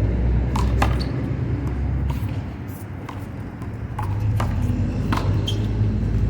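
Rubber handball being slapped by hand and bouncing off the wall and the court in a one-wall handball rally: about ten sharp, irregularly spaced smacks over a low, steady rumble.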